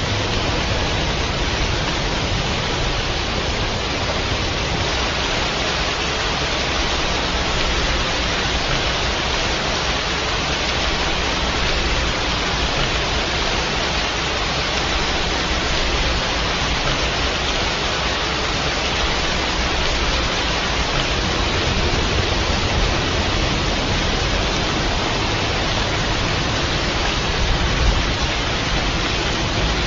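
Steady rain, an even hiss of falling water with no single drops standing out.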